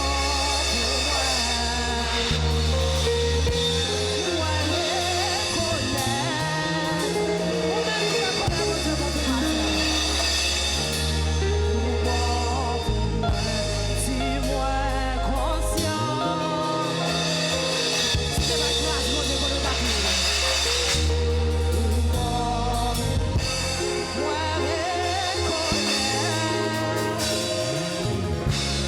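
Gospel worship song played by a church band: singing over a drum kit and a bass that changes note every couple of seconds.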